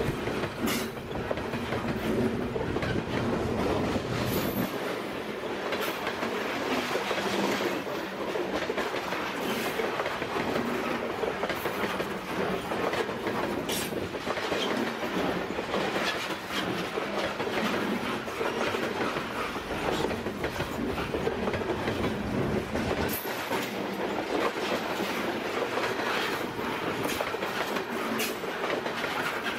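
Canadian Pacific freight cars rolling past at close range: the steady rumble and rattle of steel wheels on rail, with scattered sharp clicks. The deep rumble eases about four seconds in and comes back near the end.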